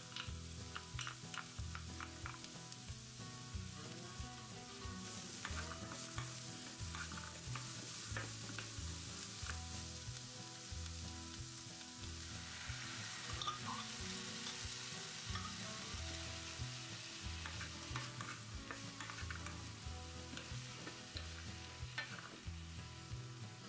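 Cut okra and onion sizzling in a nonstick frying pan while being stirred with a wooden spatula, with small scrapes and clicks. The sizzle grows about five seconds in and swells again about halfway through, as canned diced tomatoes are poured into the hot pan.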